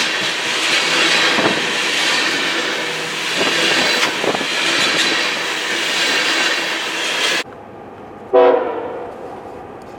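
Train rolling close by, a steady loud rumble and rail clatter with a few sharp clicks, until the sound cuts off abruptly about seven seconds in. About a second later a locomotive horn gives one short blast, followed by a quieter background.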